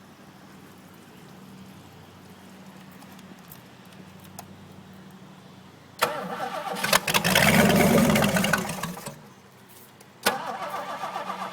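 Ford 427 FE V8 engine cranked on its starter: about six seconds in it fires and runs loudly for a couple of seconds, then dies. Near the end the starter cranks it again with an even chug, about five pulses a second, as the engine struggles to catch.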